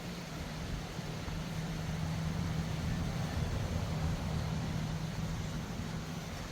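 Mountain valley stream rushing steadily, under a steady low hum that swells in the middle and eases off again.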